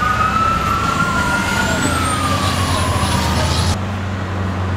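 Emergency vehicle siren wailing, rising in pitch and then slowly falling, over the steady low rumble of a running engine.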